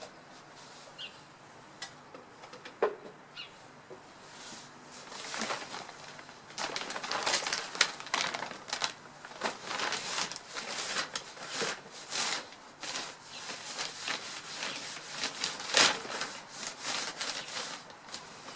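Birds flapping and rustling as they move about in a tree's branches, in irregular bursts through most of the clip. A few short, faint chirps come in the first four seconds.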